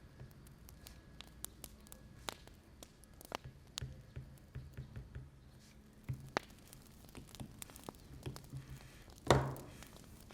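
Wood fire crackling with scattered sharp pops, over soft tapping of a stylus writing on an iPad screen. One louder knock comes about nine seconds in.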